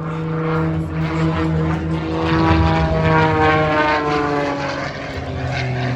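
Propeller-driven aerobatic airplane passing by. The engine gets loudest about halfway through, and its note then drops in pitch as the plane moves away.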